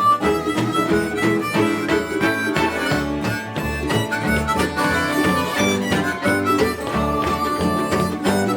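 Instrumental break in a country-blues song: harmonica playing held melody notes over rhythmic acoustic guitar.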